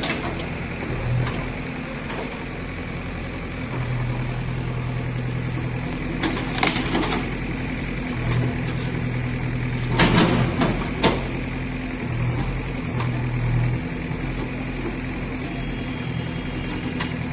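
JCB 3DX backhoe loader's diesel engine running steadily, with a few sharp knocks about six and ten seconds in.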